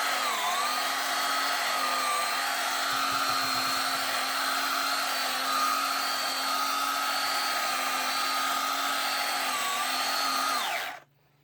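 Pinecone SG-1603 RC truck's 380 brushed electric motor and drivetrain whining steadily under part throttle, with brief dips in pitch near the start and around nine seconds in. It cuts off suddenly near the end.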